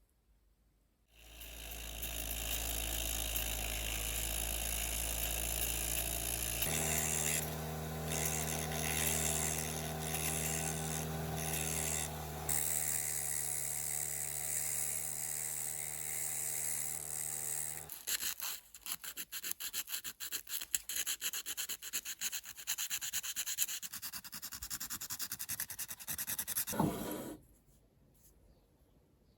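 A power tool with an electric motor running steadily while an abrasive rubs against the work; its note shifts about a third of the way in. About two-thirds of the way in the sound turns into fast, dense scratching, and it stops abruptly near the end.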